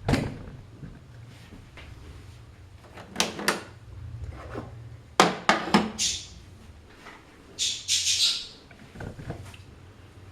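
Saeco MonteCarlo Automatica espresso machine working: a steady low hum with a series of mechanical clicks and clunks, and two short hissing bursts later on.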